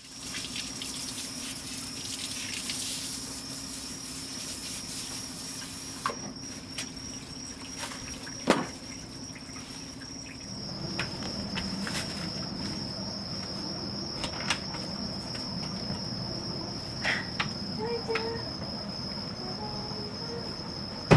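A cricket trilling steadily on one high pitch, with scattered light clicks and knocks over it.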